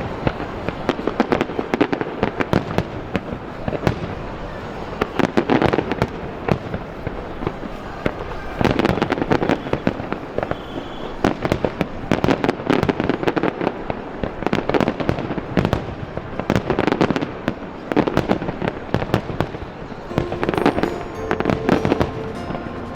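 Fireworks display: a continuous dense crackle of small bangs, with heavier volleys of bursts every few seconds.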